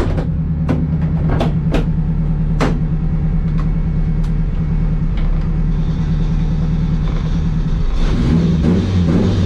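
A car engine running steadily at idle, with several sharp clicks in the first few seconds. About eight seconds in, its pitch starts to rise and fall as the engine is revved or another car moves.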